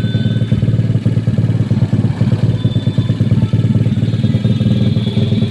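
Motorcycle engine running steadily at a constant speed.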